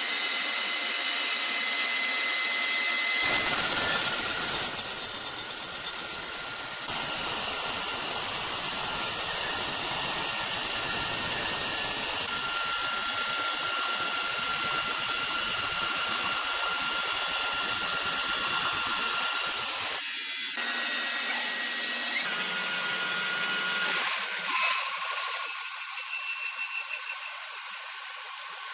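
Sawmill saws and machinery running, a steady high whine over hiss. The sound changes abruptly several times, with brief louder screeches about five seconds in and again near the end.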